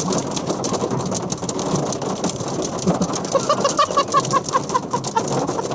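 Hailstones pelting a car, a dense, fast rattle of many small hard impacts. About halfway in, a quick run of short repeated notes sounds over the hail.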